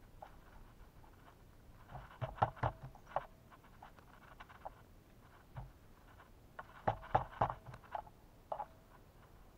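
Birds pecking and scrabbling on a bird feeder right by the camera: irregular clusters of sharp taps and knocks, with quieter gaps between.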